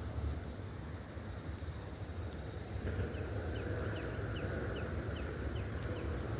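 Riverside outdoor ambience: a steady low rumble under a thin, steady high insect whine. From about three seconds in, a bird repeats a short falling chirp about eight times, roughly two or three a second.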